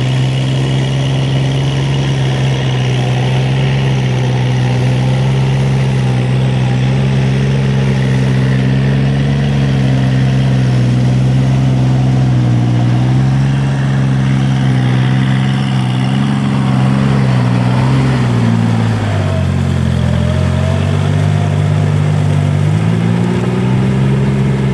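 Kubota diesel engine running steadily. Its pitch drops about three quarters of the way through, then climbs back a few seconds later.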